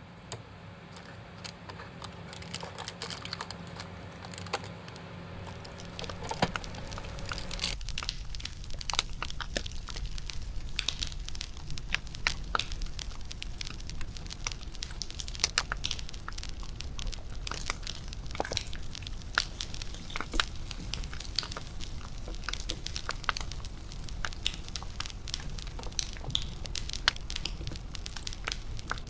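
Wood fire crackling, with frequent sharp pops and snaps over a low steady rumble. It fades in over the first several seconds.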